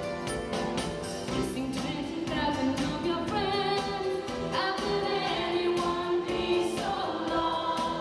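A choir singing in harmony over a live pop band with a steady drum beat. The voices come in over the instrumental playing about two seconds in.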